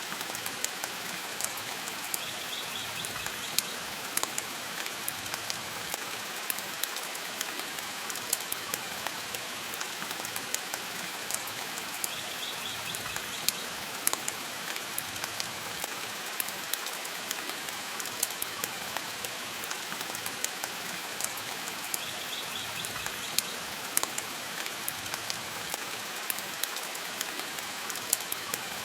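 Steady rain hiss mixed with the frequent sharp crackles and pops of a wood fire burning in a fireplace.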